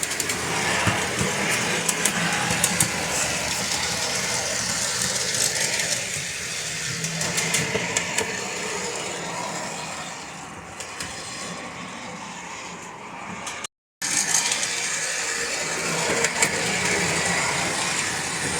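Stamped-steel standard-gauge toy rail cars running on track: a small DC motor whirring through nylon gears, with the wheels clicking and rattling as they go. The sound cuts out for an instant about two-thirds through, then carries on.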